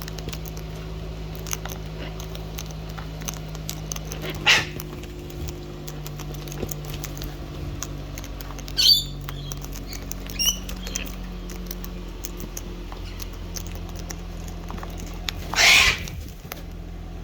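Parrots cracking and crunching seed, a continuous fine clicking and crackling of beaks on seed husks, with a few short louder bird calls scattered through.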